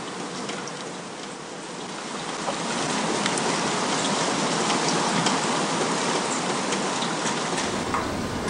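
Steady rain falling, an even hiss with scattered sharp drop ticks, growing louder about two to three seconds in.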